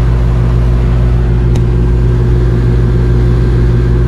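Air conditioner's outdoor condensing unit running with the compressor on: a loud, steady low hum with a constant tone, while the system is being charged with refrigerant. There is a faint click about a second and a half in.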